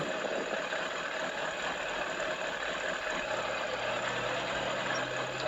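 Motorcycle engine running slowly, heard through a dashcam's microphone, with a low steady hum joining in about three seconds in.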